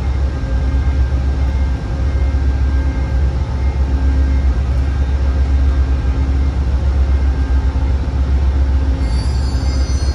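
Amtrak train, two diesel locomotives hauling a new Acela trainset, rolling by on the rails with a steady low rumble. Thin high-pitched tones, like wheel squeal, come in about nine seconds in.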